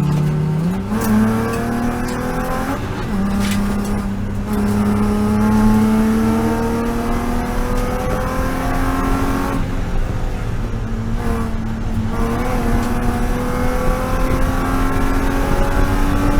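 BMW E36 M3 race car's straight-six engine under hard acceleration on track. Its pitch jumps up near the start, then climbs slowly through long pulls, dropping sharply about three seconds in and again around ten seconds in at gear changes.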